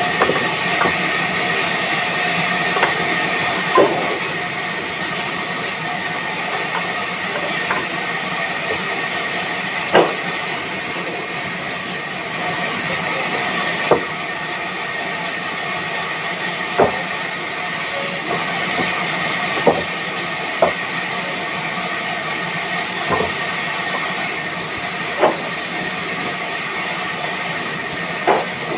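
Sawmill machinery running, a steady hiss with a high whine, and a sharp knock every few seconds.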